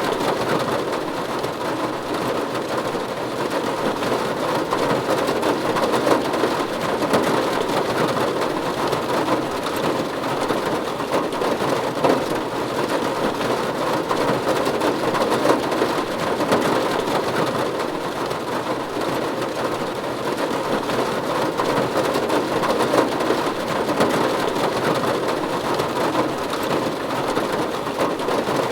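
Steady rain falling on a roof: a dense, even patter of drops that keeps up without letting off.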